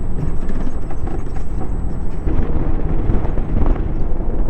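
Golf cart driving along a road: steady rumble of the ride, wind buffeting the microphone and tyre noise.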